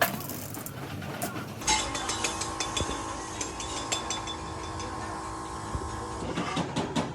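Mechanical clicking and tapping over a steady hum, with the sound changing abruptly about two seconds in and the hum stopping near the end.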